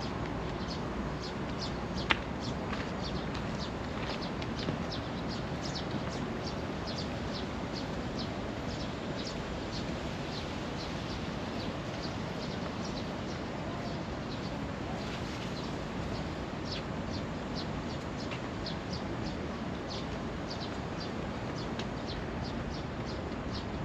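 Birds chirping, short high calls repeating two or three times a second over steady background noise, with one sharp click about two seconds in.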